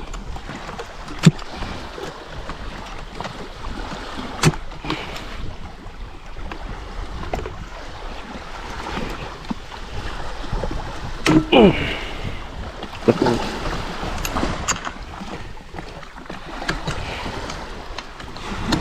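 Wind and sea water around a small open boat, with a steady low rumble and a few sharp knocks on the boat. A couple of short falling tones sound near the middle.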